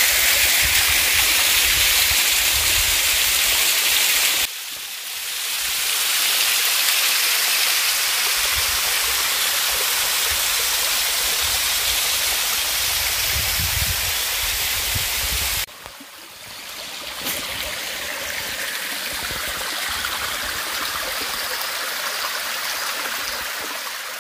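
Waterfall rushing steadily. Twice the sound drops suddenly and then swells back.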